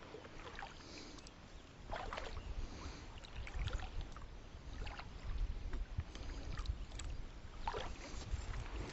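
Water lapping and sloshing against a kayak, with scattered light knocks and a low rumble underneath.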